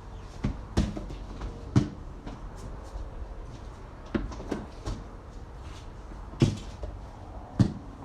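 A basketball bouncing and hitting hard surfaces in a small room: about half a dozen sharp, irregularly spaced thuds.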